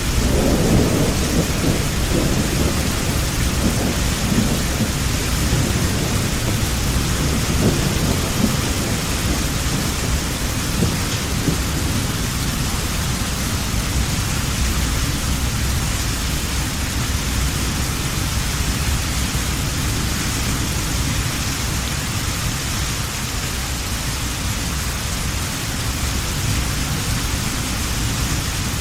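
Heavy rain falling steadily, with a low rumble of thunder at the start that fades away over the first several seconds.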